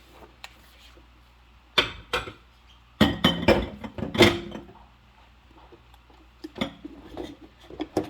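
Dishes and cutlery knocking and clinking as they are washed by hand, in scattered clatters with a busy, loudest stretch from about three to four and a half seconds in.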